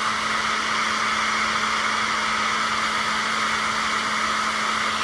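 Handheld hair dryer running steadily on its low setting: an even rush of air with a steady motor hum underneath.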